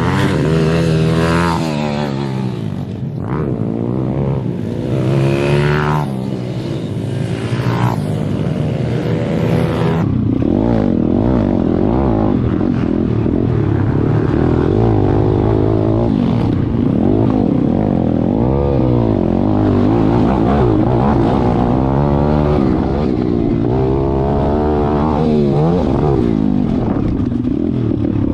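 Pit bike engines revving up and down over and over as the bikes are ridden hard around a track, the pitch climbing and falling with each throttle and gear change. About ten seconds in the sound turns duller.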